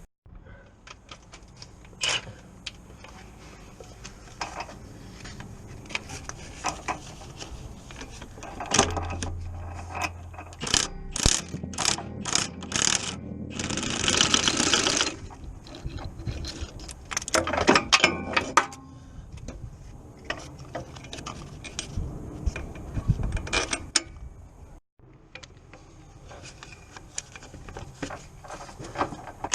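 Hand tools at work on a car: irregular metallic clicks, knocks and ratcheting. About halfway through comes a burst of noise about a second long.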